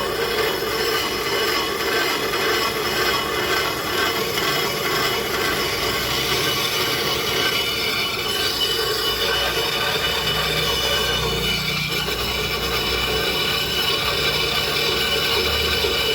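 Steady metallic rubbing screech from machinery running without a break, with several fixed high-pitched tones over a rough, grinding noise.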